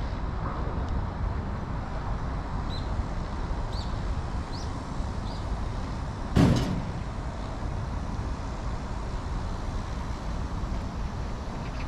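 Steady low outdoor rumble with a few faint high chirps, broken about six seconds in by a single loud, sharp bang with a short ring.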